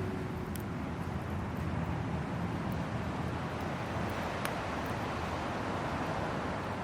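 Hardwood campfire burning in a small fire stand: a steady rush of flames with a few sharp crackles of the wood, one about half a second in and another about four and a half seconds in.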